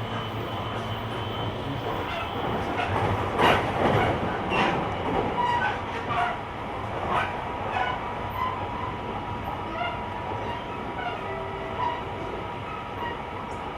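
JR Kyushu 885-series electric train car (Hitachi traction equipment) running on the line, heard from the vestibule: steady rolling noise with a held whine and irregular knocks as the wheels pass over rail joints, loudest a few seconds in.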